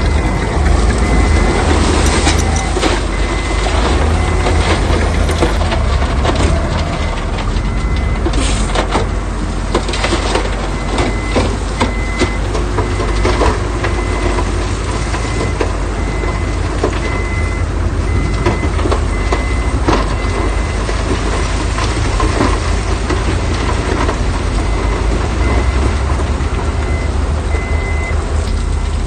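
Heavy diesel construction machinery running steadily under load, with scattered clanks and knocks, and a reversing alarm beeping repeatedly at an even pace.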